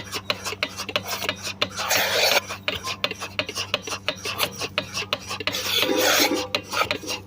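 Petrol-engine cow-milking machine running, with a steady low hum and rapid clicking of the pulsator, and two hissing rushes of air, about two and six seconds in, as the teat cups are fitted onto the teats.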